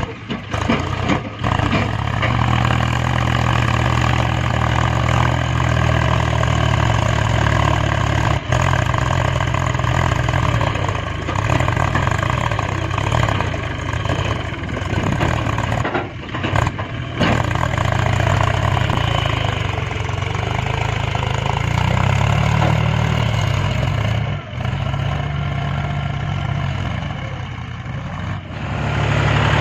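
Mahindra B275 tractor's three-cylinder diesel engine running steadily under load while hauling a heavily loaded manure trolley, its pitch and level wavering slightly. There are a few brief dips and breaks in the sound.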